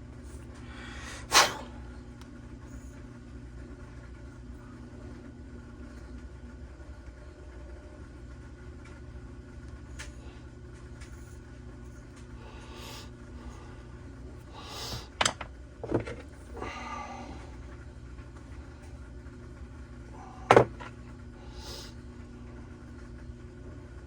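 A few sharp clicks and knocks as carburetor parts are handled and fitted, the loudest about twenty seconds in, over a steady low hum.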